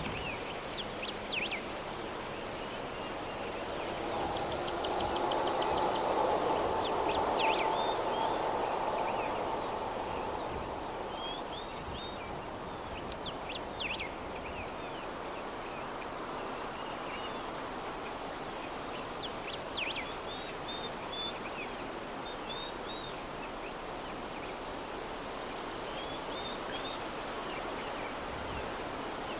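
Steady soft breeze ambience with scattered small-bird chirps and a brief trill. The sound swells for several seconds about a third of the way in, then settles back.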